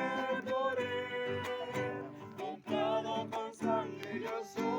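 Acoustic guitar strummed in a steady rhythm while a small choir sings along.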